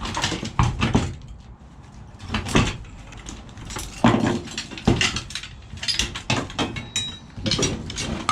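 Irregular knocks and clanks of scrap metal being worked by hand while a piece of copper is stripped clean, several sharp hits a second with a brief ring from the metal near the end.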